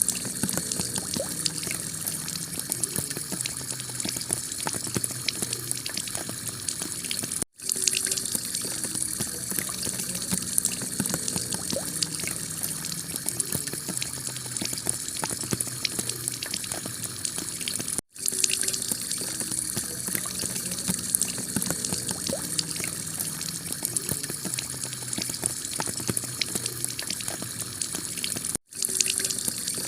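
Heavy rain falling on a clay-tiled roof: a steady hiss of water thick with individual drop ticks. It cuts out for an instant three times, about ten seconds apart.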